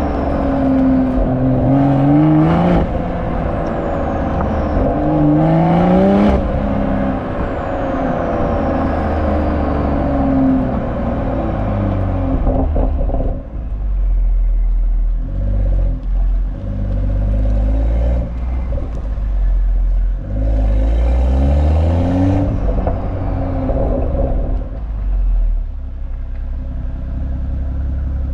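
BMW M340's B58 3.0-litre turbocharged inline-six exhaust during acceleration pulls: the engine note climbs in pitch three times, near the start, around five seconds in and around twenty-one seconds in, each time cutting off and falling back. Between the pulls it settles to a lower, uneven rumble.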